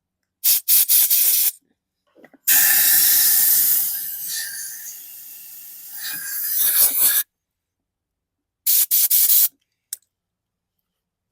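Compressed-air blow gun blasting into a riding mower's fuel tank to clear out gunk: a few short bursts, then one long blast of about five seconds that drops in level midway and rises again, then another quick run of short bursts near the end.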